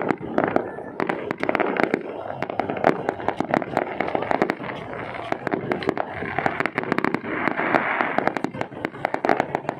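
New Year's Eve fireworks going off continuously, a dense run of rapid cracks and pops over a steady rumble, with crowd voices mixed in.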